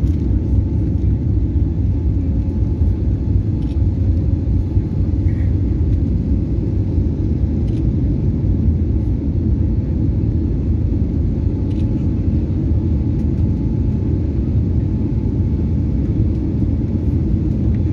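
Airliner's jet engines during takeoff: a loud, steady low rumble with a faint hum above it.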